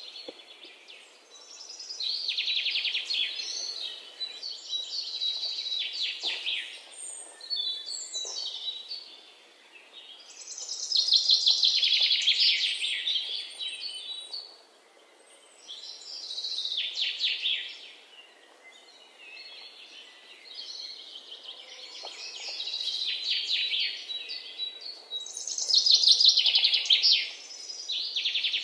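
Birds chirping in repeated bursts of rapid, high chattering notes, each a couple of seconds long, with short gaps between.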